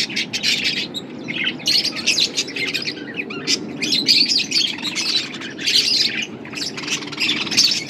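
Budgies chirping and chattering in quick, overlapping calls, with a short lull about a second in.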